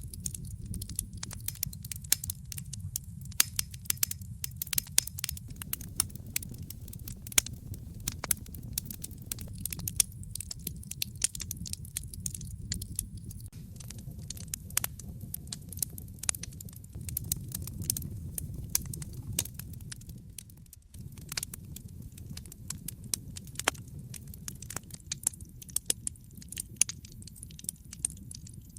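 Wood fire in a fireplace crackling, with frequent irregular sharp pops over a steady low rumble of the flames. The sound dips briefly about three-quarters of the way through.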